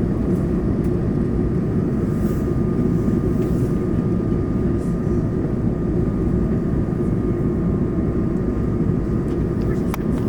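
Steady in-flight cabin noise of an Airbus A220: the even drone of its Pratt & Whitney PW1500G geared turbofans and rushing airflow, with a thin steady whine above it. A single sharp click comes near the end.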